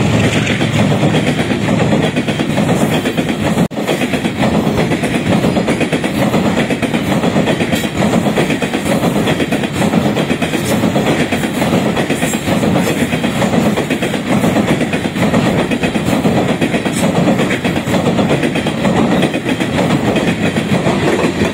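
Freight train's hopper wagons rolling across a steel girder bridge: a loud, steady, rapid clatter of steel wheels on the rails over a continuous rumble.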